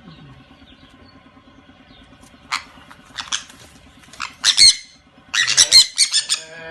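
A bird squawking in short, sharp calls. They start about two and a half seconds in and come in quick clusters, loudest near the end, over a faint steady hum.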